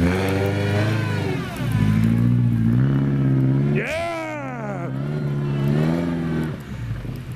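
Car engine revving with its wheels spinning in deep snow as the car tries to pull out. The engine pitch shifts up and down, with one sharp rev that rises and falls a little past halfway.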